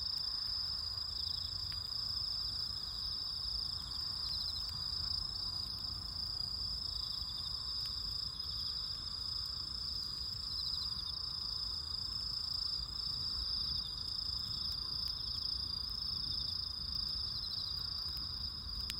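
Night insects chirping: a steady high-pitched trill with repeated short pulsed chirps every second or two, over a low steady background hiss.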